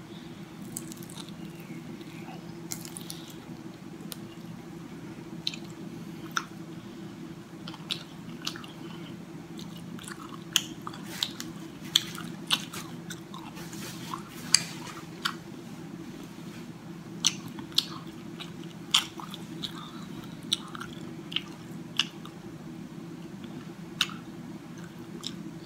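Close-miked chewing of a fried egg roll: scattered wet mouth clicks and smacks over a steady low hum.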